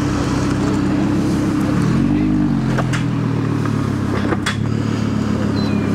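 Lamborghini Huracán's V10 running at low revs as the car creeps past, with a brief rise and fall in revs about two seconds in.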